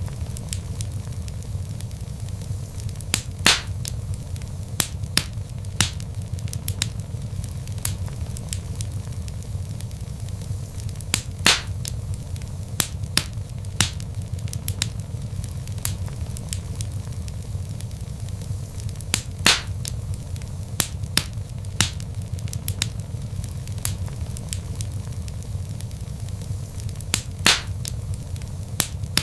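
Log fire burning with a steady low rumble and constant small crackles, and louder pops about every eight seconds.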